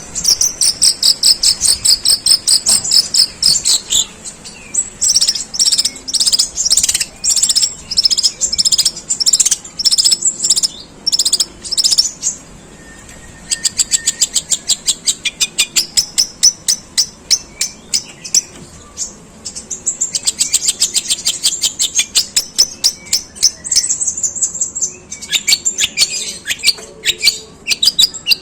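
Long-tailed shrike singing long, harsh volleys of rapid, repeated chirps in the sparrow-like chatter style, with a short pause a little before the middle.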